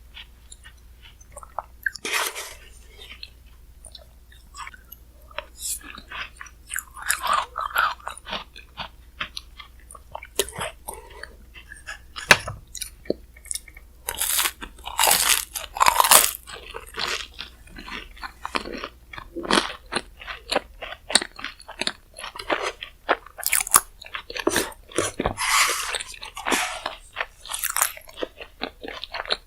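Close-miked eating sounds from a Chic Choc shaved-ice bingsu: crunching and chewing in irregular bursts of sharp, wet mouth clicks, busiest in the second half.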